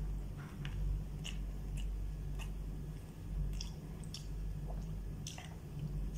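A man chewing a mouthful of chicken shawarma rice, with soft wet chewing and scattered small mouth clicks. A steady low hum runs underneath.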